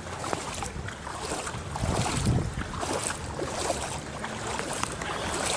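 Floodwater splashing and sloshing in irregular rushes, as someone wades through it.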